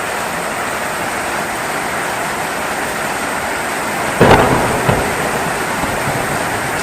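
Steady heavy rainfall with a sudden close thunderclap about four seconds in, a second crack shortly after, and the rumble dying away under the rain.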